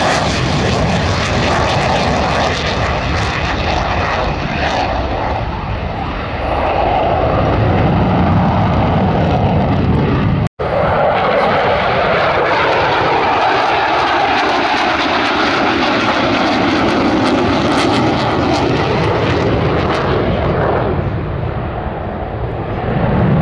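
Loud, continuous engine noise of a fixed-wing display aircraft flying past, with the pitch of the noise slowly sweeping as it passes. There is a momentary break in the sound about ten seconds in.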